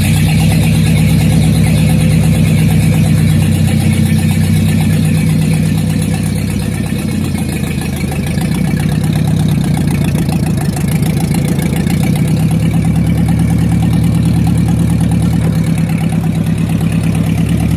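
Ford N-series tractor's four-cylinder flathead engine running steadily, easing off slightly about seven seconds in and picking back up a few seconds later. Its valves have just been adjusted to cure a valve tick.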